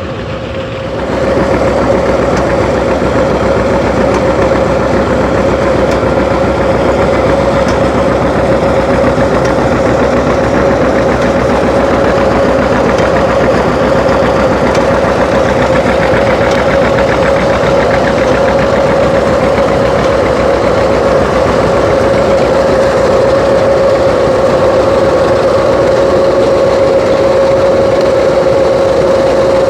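An engine running steadily at close range, with a constant high whine over it; it gets much louder about a second in and then holds even.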